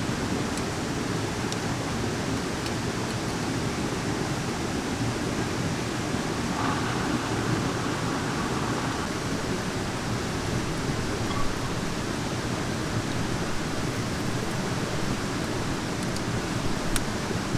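Steady rain falling as a dense, even hiss, with a few sharp ticks scattered through it.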